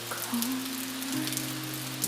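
Steady rain falling, with many small drops, over soft background music of long held notes; the chord changes about a second in.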